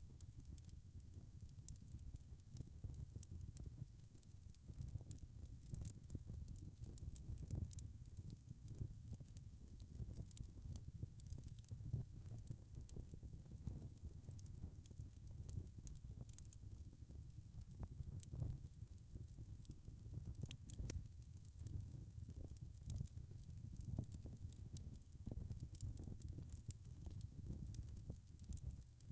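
Wood fire crackling in a fireplace: scattered sharp pops and snaps over a low, steady rumble of burning.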